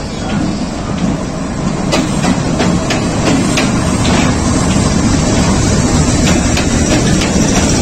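Passenger train rolling slowly into a station: a steady rumble, growing a little louder, with repeated sharp clacks of the wheels over the rail joints.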